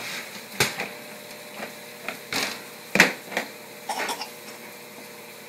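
Dishes and cutlery clattering in a dishwasher as a small child handles them: a handful of separate knocks and clinks, the loudest about three seconds in.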